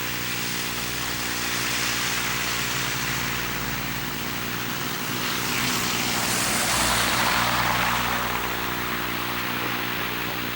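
Steady electrical buzz from the Sony Handycam's Hi8 recording, under a rushing noise of a passing vehicle that swells through the middle, loudest about six to seven seconds in, then fades.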